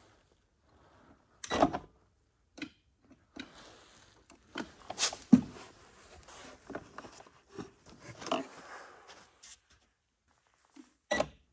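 Irregular clicks, knocks and rustling as parts and wiring are handled while a kids' ride-on electric Jeep's motors are being disconnected, the loudest knock about five seconds in.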